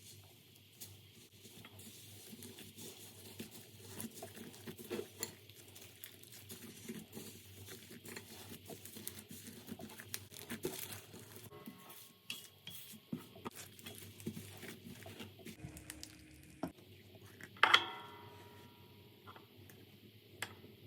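Slime being squished and worked by hand, with many small irregular crackling pops and clicks. Near the end comes one louder sharp sound with a short ringing tail.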